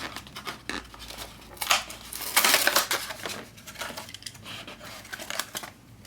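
A die-cast toy car's blister-card packaging being opened by hand: plastic and card crinkling, tearing and snipping in irregular bursts, loudest about two and a half seconds in.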